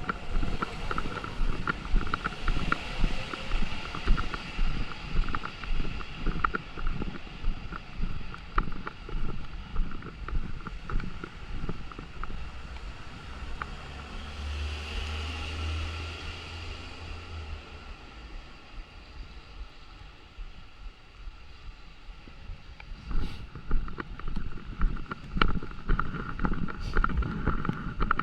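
Footsteps of someone walking, about two steps a second, that fade out for a stretch in the middle and pick up again near the end. A low engine rumble passes about halfway through.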